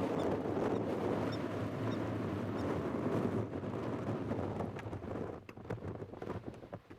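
Wind buffeting the microphone in a steady rumbling rush that eases after about four seconds, when a few short clicks come through.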